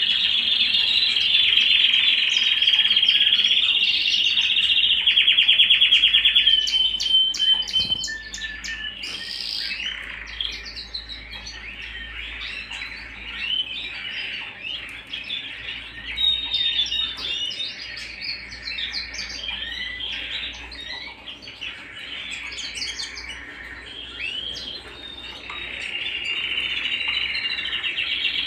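Canary singing: a loud, rapid, even trill for about seven seconds, then a looser run of chirps, whistled notes and short trills, building into another fast trill near the end.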